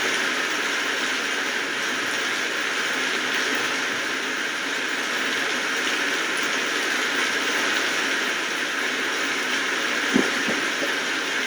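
Steady rain falling, an even hiss of drops without let-up, with one brief knock about ten seconds in.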